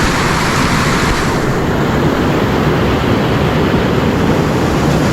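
Mountain stream water rushing steadily over rocks near the waterfall; the high hiss eases slightly about a second and a half in.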